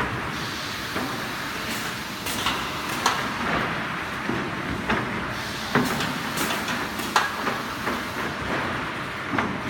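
Automatic loader and conveyors of a plywood sanding line running, a steady machine noise with sharp clacks every second or so.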